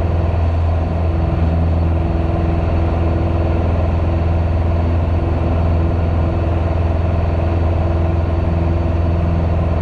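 Piper PA28's single piston engine and propeller droning steadily in flight, a constant low hum with no change in power, heard through the cockpit headset audio feed.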